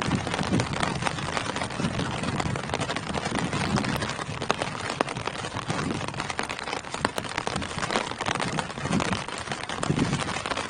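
Steady rain falling on tree foliage: a dense patter with many sharper individual drop hits, and low rumbling swells now and then.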